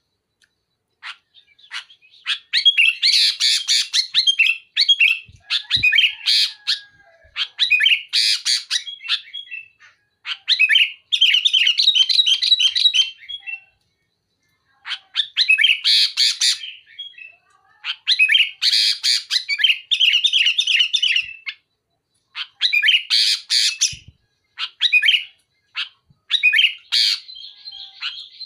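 Sooty-headed bulbul singing loudly in quick phrases of rapid, sharp, tightly packed notes, each phrase a second or two long, with short pauses between them.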